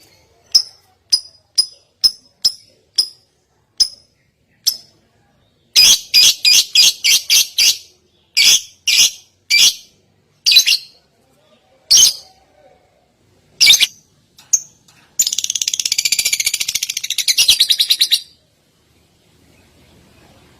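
A songbird calling in a recorded tutor song: sharp, high chips about twice a second, then a quicker run of notes, then a dense rattling trill lasting about three seconds near the end.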